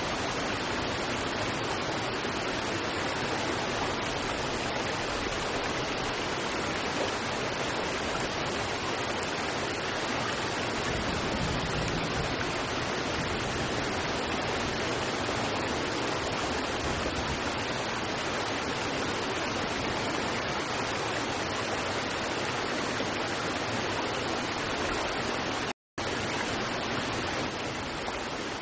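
River water rushing over rocks: a steady, even rush. It cuts out for a split second near the end, then carries on.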